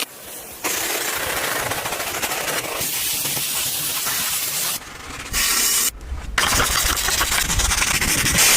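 High-pressure spray hissing against the car in several short edited clips that cut in and out abruptly, with a low machine rumble under the later ones.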